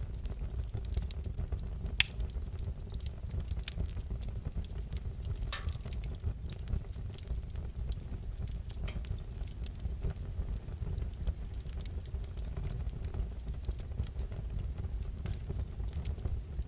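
Wood fire crackling in a fireplace: scattered sharp pops and snaps over a steady low rumble, with one louder pop about two seconds in.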